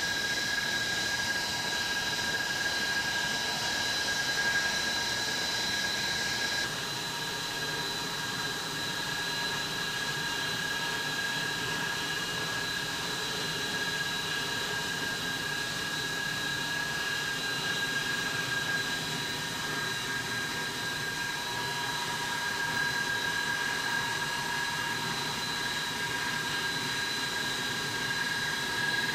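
Bristol Olympus turbojet engines of an Avro Vulcan B2 turning over on the ground, a steady jet whine with a high-pitched tone over a broad rush. The upper hiss drops a little about seven seconds in.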